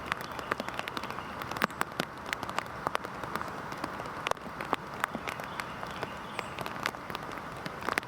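Heavy rain falling steadily, a constant hiss with many close, sharp drips and drop strikes landing at irregular moments.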